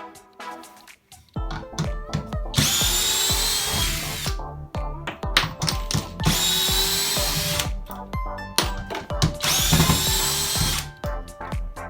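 Abeden HY-2035 18V brushless cordless drill driver running in three short bursts of drilling, each about a second and a half long, over background music.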